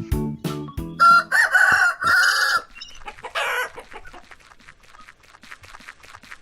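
A rooster crowing loudly, followed by chickens clucking in a quieter run of short, rapid calls. A short music jingle ends about a second in.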